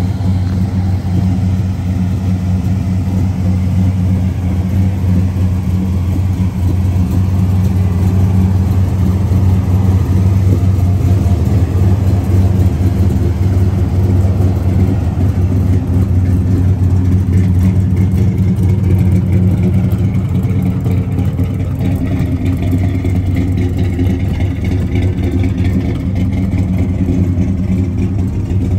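1970 Chevrolet Chevelle SS's V8 engine idling steadily.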